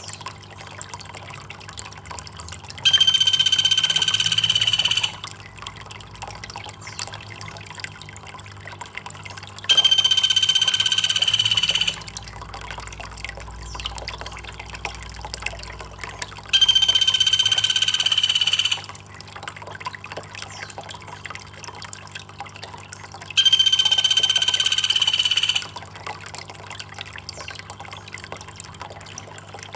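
Trickling water runs steadily under a looped high-pitched animal call, a steady buzzing tone with overtones that sounds four times, each time for about two seconds, roughly every seven seconds.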